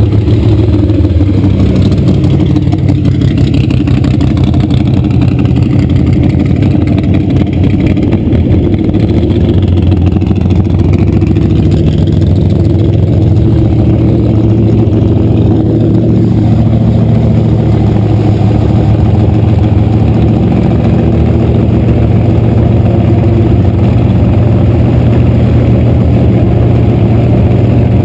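Drag car's engine idling loudly and steadily at close range, with a few small shifts in pitch as it creeps toward the starting line.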